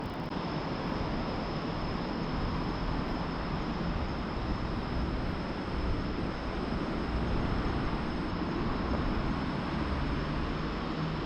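Steady rumble of vehicle noise with no clear breaks or single events.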